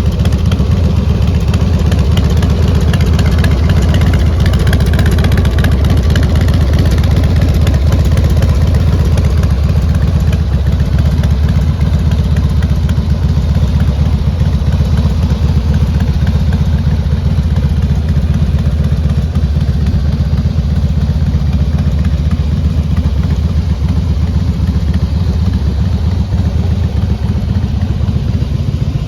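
Motorcycle with a tuned exhaust idling steadily, the exhaust note loud and low.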